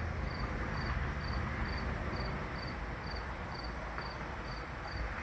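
A cricket chirping steadily, about two short high chirps a second, over a low steady rumble.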